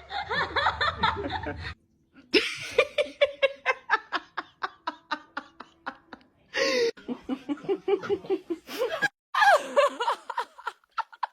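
People laughing in rapid, rhythmic bursts of giggles and snickers, broken into several segments by abrupt cuts.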